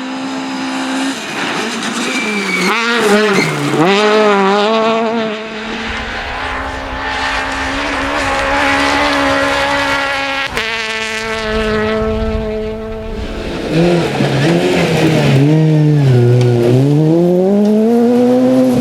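Rally car engine driven hard on a special stage. Its pitch climbs and drops again and again as the car accelerates, brakes and changes gear, with a short sharp click about ten and a half seconds in.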